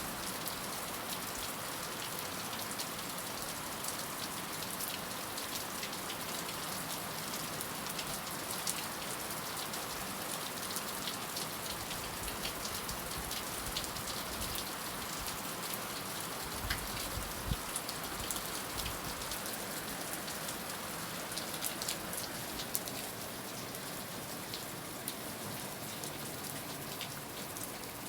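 Heavy rain falling steadily, a dense patter of individual drops striking a surface over a constant hiss. Two brief low thumps come about two-thirds of the way through.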